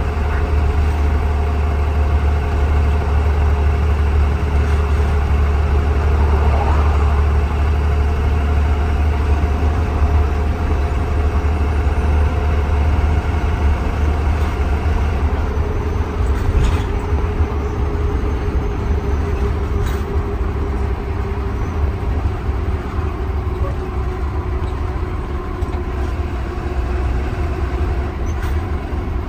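Inside a 2020 Blue Bird Vision school bus under way: a steady engine drone over a deep rumble, with a couple of faint clicks about two-thirds of the way through.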